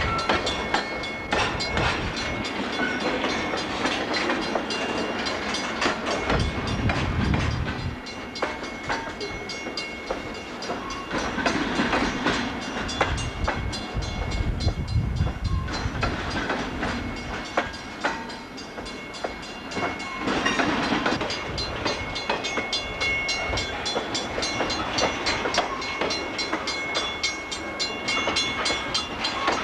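Freight cars of a Canadian Pacific train rolling slowly over a rail diamond crossing. The wheels clatter in rapid clicks across the crossing's gaps, with heavier low thuds every few seconds.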